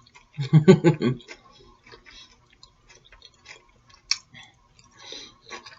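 A short voiced sound, like a brief word or hum, in the first second, then quiet chewing with scattered wet mouth clicks while eating, one sharper click about four seconds in.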